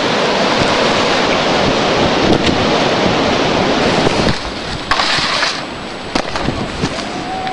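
Steady rushing noise of wind on the microphone and a snowboard sliding fast over snow. It drops off about four seconds in, followed by a short hiss and a few knocks.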